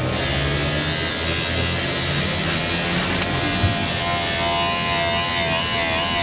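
A small electric power tool buzzing steadily, with a higher wavering whine joining in about three seconds in and a brief knock soon after.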